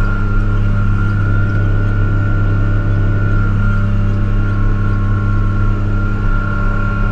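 Tractor engine running steadily under load while pulling a field cultivator, a deep even drone with a steady high whine over it.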